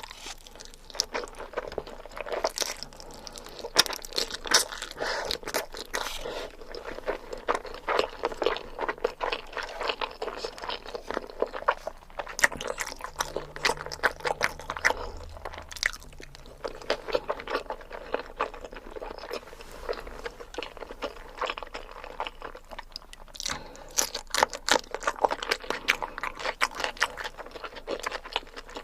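Close-miked eating: a person chewing and biting big mouthfuls, with a dense, irregular run of crisp, wet crunching clicks that thins out in the middle and picks up again near the end.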